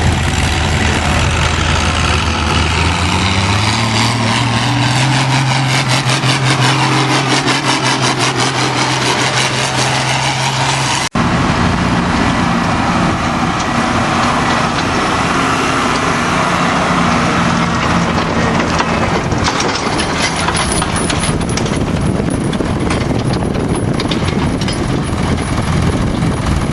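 Antique tractor engine running hard under load as it pulls, its pitch climbing a few seconds in and then holding steady. The sound breaks off for an instant about eleven seconds in, then a tractor engine carries on under load.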